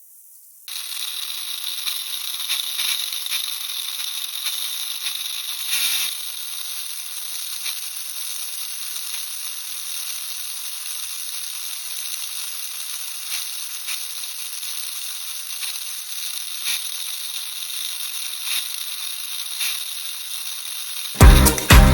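Mini 4WD car's small electric motor and drive gears running at speed, a steady high whine with a hiss and scattered light clicks, starting about a second in. This is the drive noise that the owner is trying to cure. Music comes in near the end.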